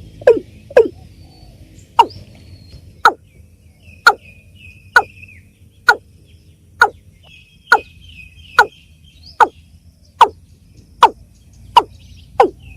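Water cock (Gallicrex cinerea) calling: a steady series of loud, short notes, each falling in pitch, about one a second, quickening near the start and again near the end. Faint high chirps of smaller birds sound behind it.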